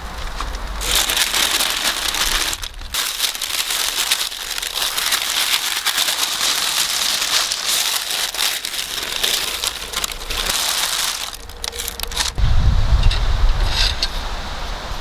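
Dense crackling hiss, made of many fine crackles. About twelve seconds in it stops abruptly and a low rumble takes over.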